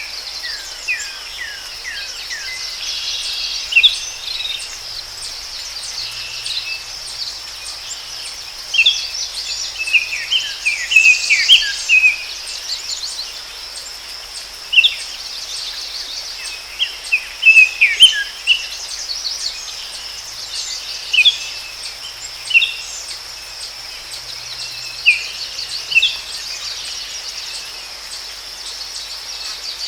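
Forest ambience: a steady high-pitched insect chorus, with birds calling in short, falling chirps that come in scattered bursts and bunch together twice.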